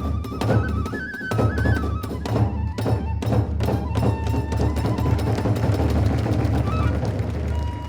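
Kagura hayashi ensemble playing a fast, driving rhythm: rapid drum strokes and clashing hand cymbals, with a bamboo flute melody that drops out after about a second and a half.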